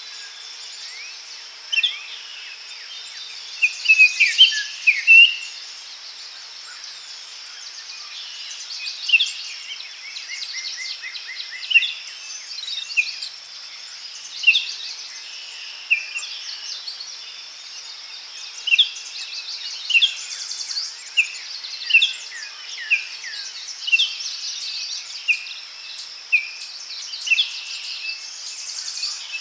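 Daytime forest ambience: several birds singing and calling in short chirps and whistles, with a quick trill of repeated notes about ten seconds in, over a steady high insect drone.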